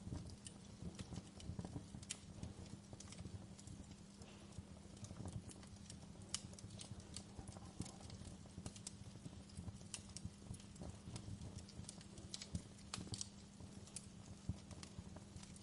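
Fire crackling with irregular sharp pops and snaps, over a low, steady drone.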